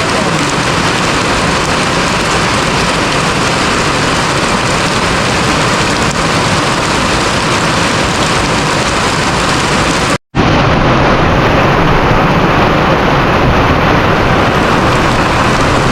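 Heavy rain pouring down, a loud steady hiss, with a brief cut-out about ten seconds in.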